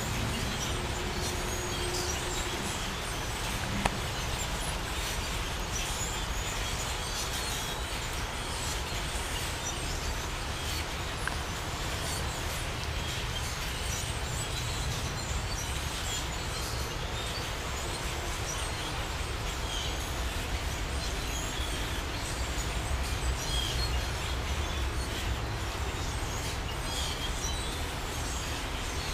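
A large flock of black birds calling, many short chirps overlapping continuously, over a steady low rumble, with one sharp click about four seconds in.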